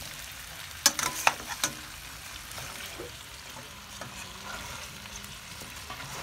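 Chicken feet and ginger sizzling as they are sautéed and stirred in a stainless steel pan, with a quick run of sharp clinks from the metal spatula against the pan about a second in.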